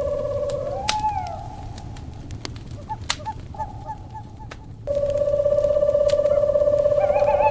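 Owl calls over a crackling fire: a long, steady, slightly wavering hoot breaks off just under a second in and is followed by a short rising-and-falling note. A run of short hoots comes about three to four and a half seconds in, and the long hoot resumes about five seconds in, while the fire's crackles sound as scattered sharp pops.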